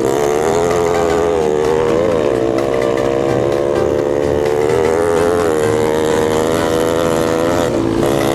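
Trail motorcycle engine running under way, its pitch rising and falling repeatedly as the throttle is worked.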